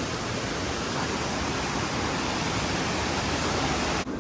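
Steady rushing of flowing water from a waterfall-fed stream, an even wash of noise that breaks off abruptly for a moment near the end.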